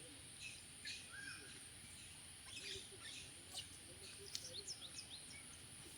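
Faint birds chirping: scattered short calls, a little busier in the second half, over quiet outdoor ambience.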